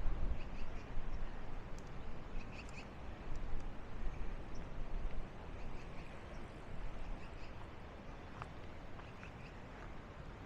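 Steady rush of the Bow River's water with a low rumble, and faint short bird chirps now and then over it.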